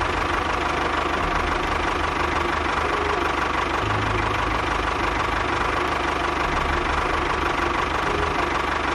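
Small motor of a DIY mini bulldozer model running steadily, with a fast low pulsing under it.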